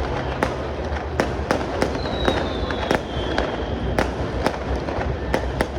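Fireworks going off in an irregular string of sharp bangs and cracks, about two a second, with a high whistle that slides slightly down in pitch in the middle.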